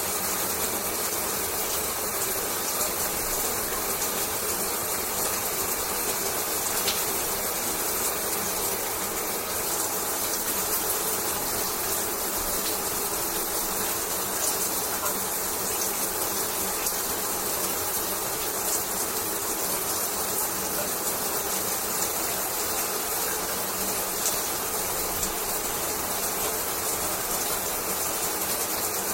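Shower running: a steady, unchanging spray of water.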